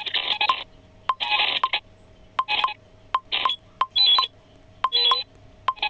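Short bursts of electronic beeping tones, each a fraction of a second long and coming roughly once a second, with sharp clicks in between.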